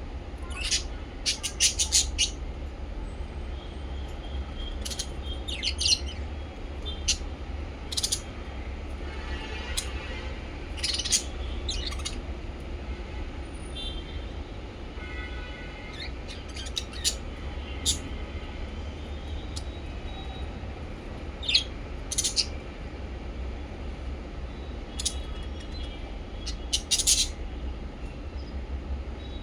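Small pet parrots chirping in short, high-pitched calls scattered irregularly, with a couple of brief warbling stretches, over a steady low hum.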